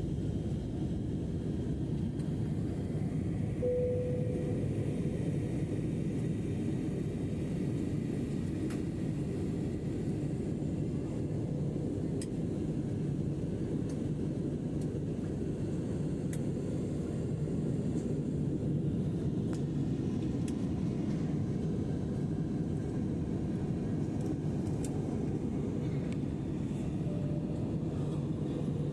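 Steady low rumble of airliner cabin noise in flight, engines and airflow running at constant power. A brief tone sounds about four seconds in.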